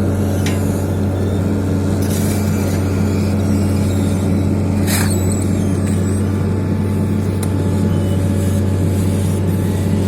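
Heavy diesel engines of road-paving machinery running steadily at a constant pitch, with a short hiss about five seconds in.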